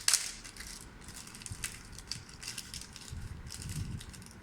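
Packaging and small parts being handled: a sharp crinkling crackle at the start, then scattered rustles and light clicks.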